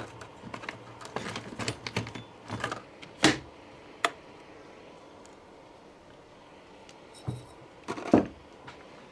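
Tools being handled and put away: a run of light clicks and clinks, then a few sharp knocks, the loudest near the end.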